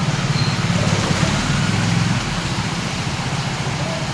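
Steady rain hiss with a low, pulsing engine-like rumble underneath that is strongest for the first two seconds and then eases.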